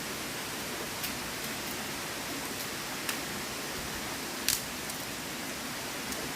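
Steady rushing of a river, with a few sharp clicks over it, the loudest about four and a half seconds in.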